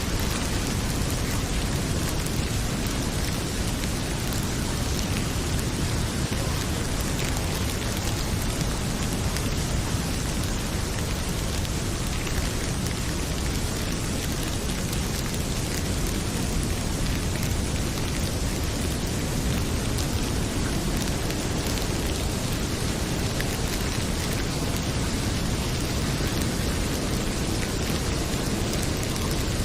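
Heavy rain pouring steadily, an even hiss, with a wood fire crackling in small scattered pops over it.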